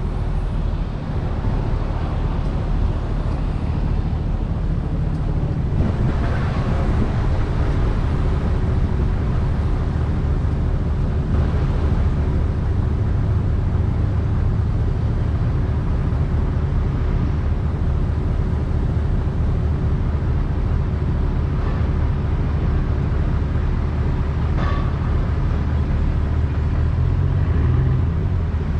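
Car engine running steadily at low revs, a continuous low hum.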